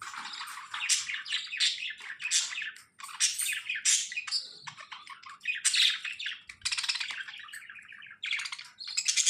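Pet birds chirping, many short high calls overlapping almost without a break.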